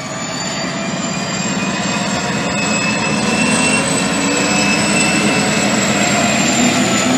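EMD SD45 diesel locomotive loading up under throttle: its 20-cylinder turbocharged engine running with a steady high turbocharger whine, growing steadily louder as it pulls away.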